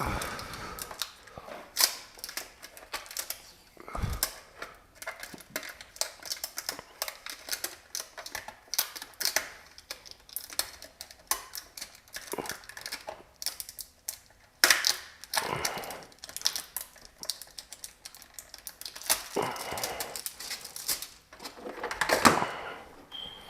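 Irregular clicks, taps and rustles of things being handled at close range, with a few louder knocks.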